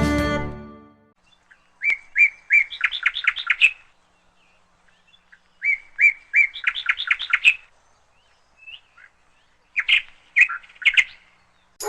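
A songbird singing the same phrase twice, a couple of seconds apart: a few separate whistled notes, then a quick run of rapid notes. A few shorter chirps follow near the end.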